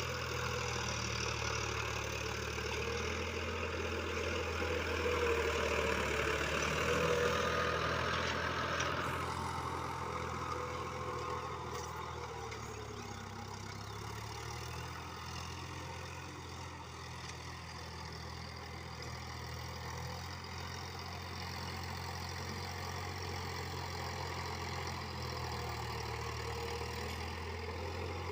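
Sonalika DI-50 RX tractor's diesel engine running steadily. It is louder and harsher for the first several seconds, then eases off to a lower, even running sound about nine seconds in.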